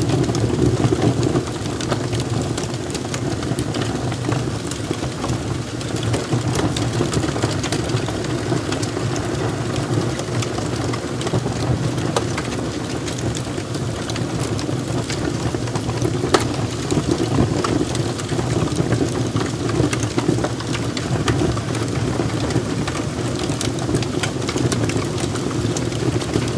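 Wood logs burning in a fireplace: a steady low rush of flames with frequent sharp crackles and pops.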